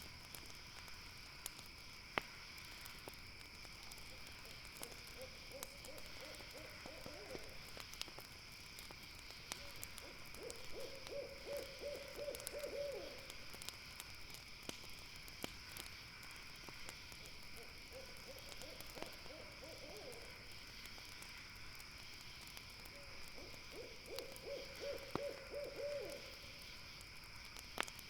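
An owl calling in trilled phrases, each a quick run of notes on one pitch lasting two to three seconds, coming in two pairs, a softer phrase followed by a louder one. A steady high insect drone runs underneath, and a campfire crackles with occasional sharp pops.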